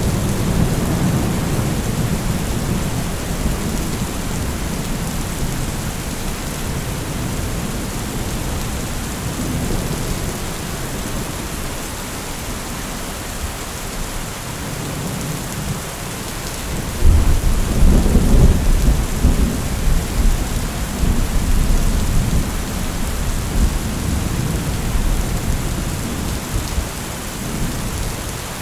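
Heavy rain falling steadily with thunder rumbling low underneath. About two-thirds of the way through a louder clap of thunder breaks in suddenly and rolls on for several seconds.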